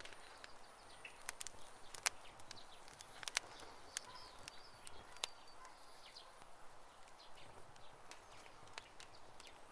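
Campfire crackling: irregular sharp pops and snaps over a soft hiss, with a couple of louder snaps about two and three seconds in.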